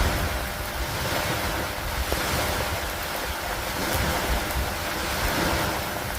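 Steady rainstorm noise with wind: an even hiss of falling rain over a low, gusty rumble that swells and eases every second or two.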